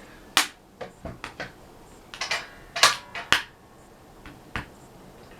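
About a dozen sharp clicks and knocks from relighting a wood stove, with one brief metallic ring in the middle.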